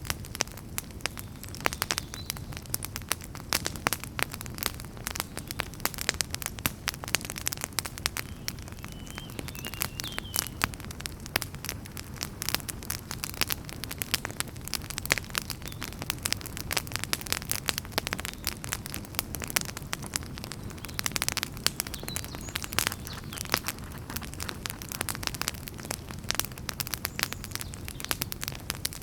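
Wood fire in a fireplace crackling steadily: many irregular sharp pops and snaps over a continuous low rumble of the flames.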